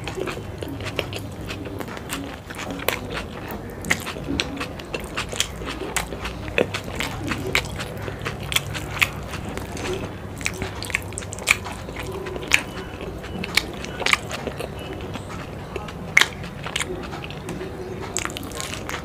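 Close-miked chewing of a mouthful of saucy chilli momo, with many sharp wet clicks and smacks scattered throughout.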